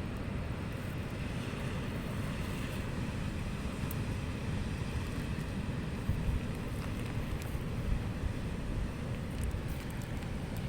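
Wind buffeting the microphone in a steady low rumble, with a few faint ticks.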